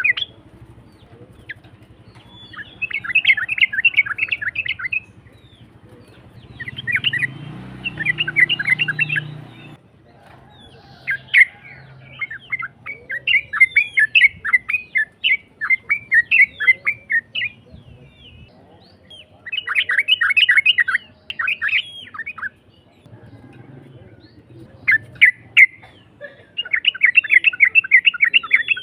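Yellow-vented bulbul (trucukan) singing rough-voiced phrases of rapid chattering notes, each burst about two to three seconds long and repeated after short pauses, with a longer unbroken run in the middle. This is a lure (pancingan) song, meant to make other bulbuls answer.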